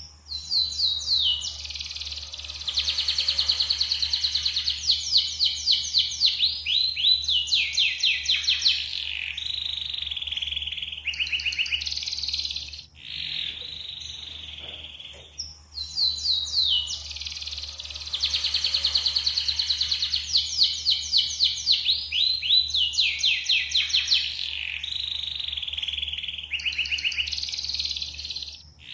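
Yellow canary singing a long, continuous song of fast trills and rapid repeated notes, with a short break about halfway. After the break the same song passage is heard again. A steady low hum runs underneath.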